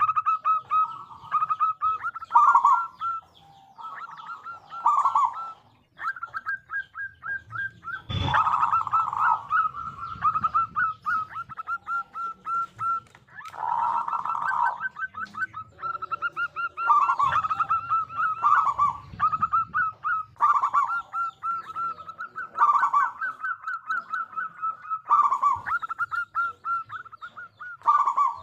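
Zebra dove (perkutut) cooing: phrase after phrase of quick, rolling coo notes. A sharp knock comes about eight seconds in.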